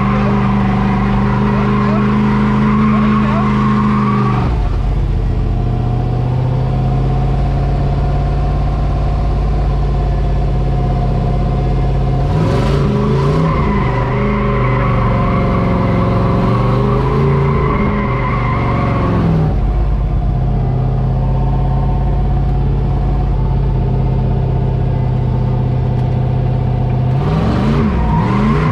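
Drift truck's engine running hard at held revs, the pitch shifting up and down several times as the revs and gears change.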